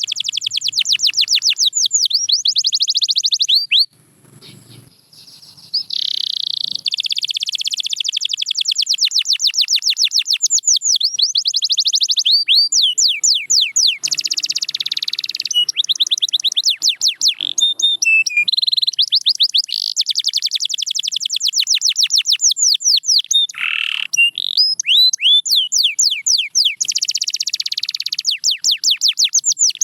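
Domestic canary singing: long, fast trills of high, sweeping notes repeated many times a second, broken by a short pause about four seconds in.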